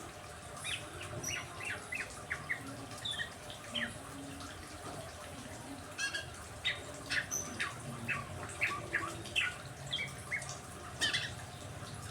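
Caged songbirds chirping in quick series of short, high calls, in two flurries, over a steady hiss of rain.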